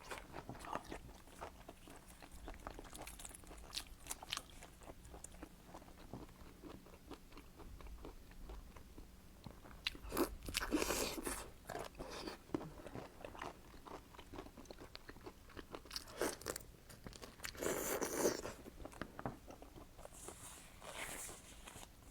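A person chewing and crunching seafood, with many small wet clicks and two louder spells of crunching about ten seconds in and again near the end.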